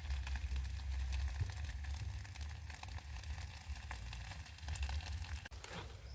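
Cooking fire crackling, with small irregular pops and sizzling over a steady low rumble.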